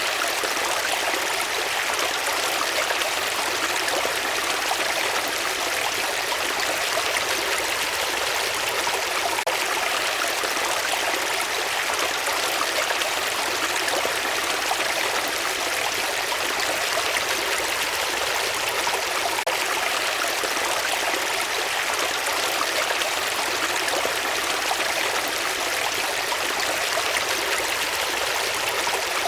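Flowing water, likely a stream: a steady, even rush that does not change.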